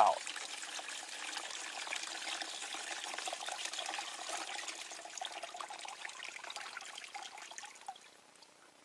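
Acid electrolyte pouring out of the open cells of a tipped 12-volt lead-acid car battery: a steady splashing trickle that thins and stops about eight seconds in.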